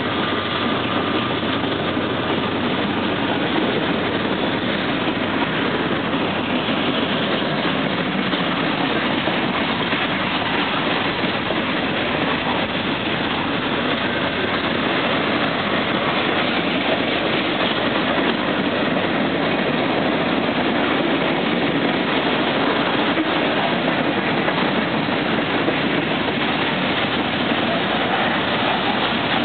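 Freight train running past, with a steady, even noise of wheels on the rails.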